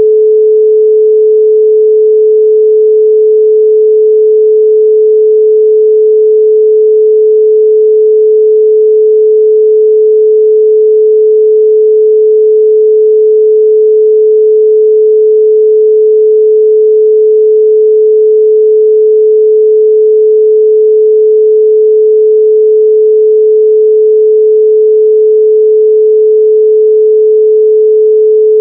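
A continuous pure sine tone at 432 Hz, held steady and loud with no change in pitch or level.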